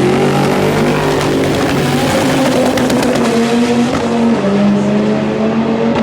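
A car engine held hard at high revs, its note dipping a little about four seconds in, with tyres squealing under wheelspin, as in a drift or burnout.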